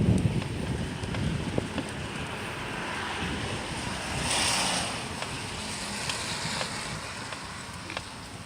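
Wind buffeting the microphone while riding a bicycle in the rain, a gusty low rumble over a steady hiss. About halfway through, a louder hiss swells and fades over a second or so.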